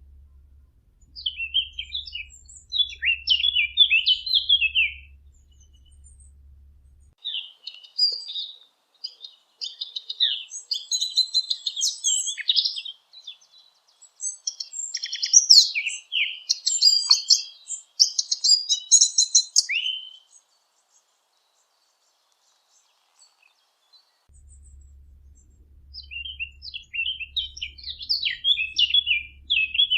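Sylvia warbler singing: long, fast warbling phrases of rapid chattering notes, four in all, with a few seconds of silence before the last one.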